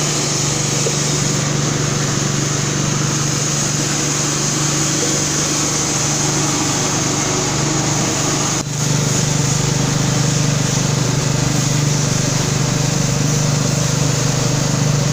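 Motor of a ginger-processing machine running steadily with a low hum. About two-thirds of the way through it dips for an instant and then carries on slightly louder.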